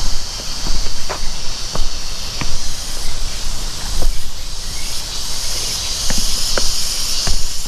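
Insects chirring steadily in a high-pitched band that grows louder in the second half, with footsteps crunching along a walking track every half second to a second.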